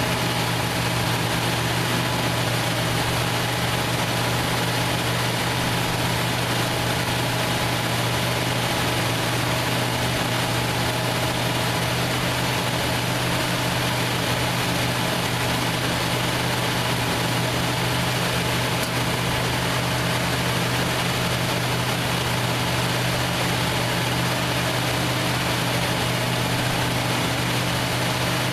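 The 1968 Plymouth Fury's 383 big-block V8 idling steadily, an even low hum that does not rise or fall.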